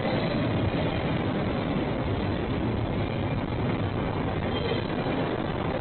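Freight train rolling by, a steady, even noise.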